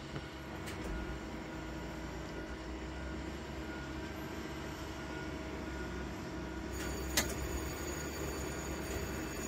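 Steady low rumble of a train, heard from inside a cab, with a single sharp click about seven seconds in.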